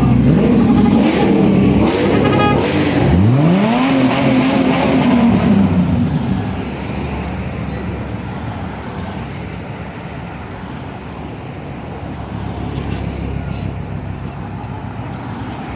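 Car engine revving: the pitch climbs sharply about three seconds in, holds, then eases back. Around six seconds in it dies away to a steady background noise.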